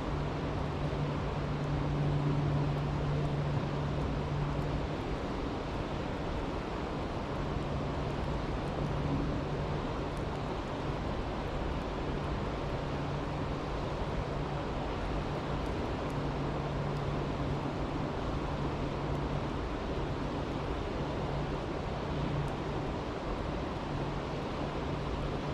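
Creek rushing steadily, an even wash of water noise, with faint crackles from a campfire. A low steady hum runs underneath, fading in and out.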